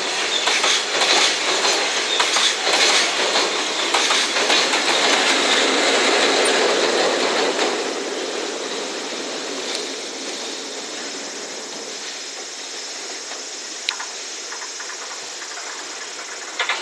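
Container freight train passing: the wagon wheels clatter over the rail joints with a steady run of clicks. About eight seconds in the rear EF67 electric banking locomotive goes by and the sound drops and fades as the train draws away.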